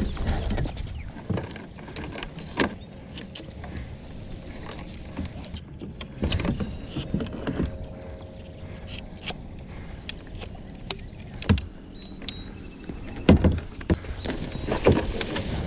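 Irregular clicks, knocks and rattles of fishing gear being handled in a kayak, with a short steady whir about six seconds in and a few louder thumps near the end.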